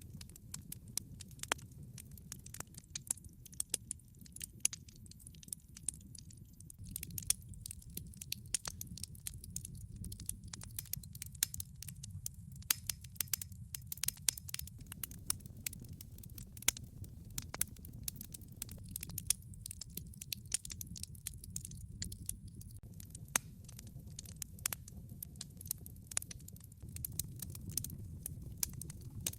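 Wood log fire crackling in a fireplace: many small sharp snaps and pops, irregular and frequent, over a steady low sound of the burning logs.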